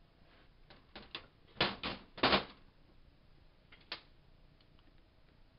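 Metal tools and small gun parts clicking and knocking against each other and a work surface: a few light clicks, then three louder knocks close together, and one more click a little later.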